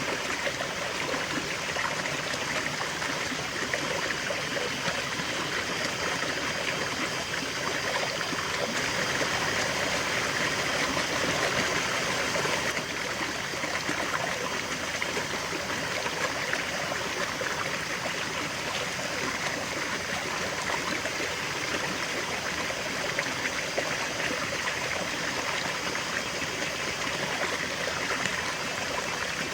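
River water flowing steadily over stones, a continuous rushing with fine splashing and trickling, slightly louder for a few seconds in the middle.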